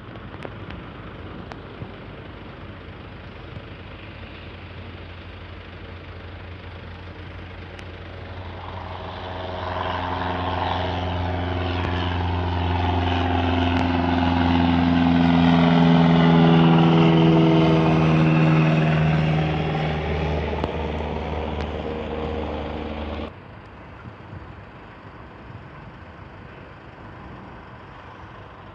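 Fieseler Storch's piston engine at climb power passing close by. It grows louder from about a third of the way in, peaks, then drops in pitch as it goes past, and cuts off abruptly about three-quarters through.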